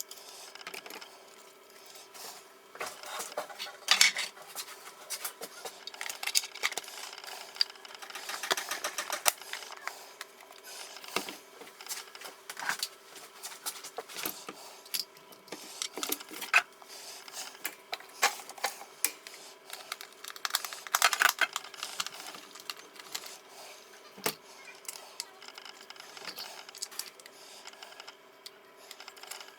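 Irregular clicks, taps and light clattering of small hard objects being handled, over a steady hum.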